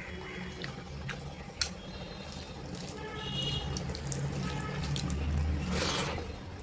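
Wet eating sounds of dal and rice eaten by hand: squelching, chewing and sharp lip-smacking clicks, with a louder wet swell near the end, over a steady low hum.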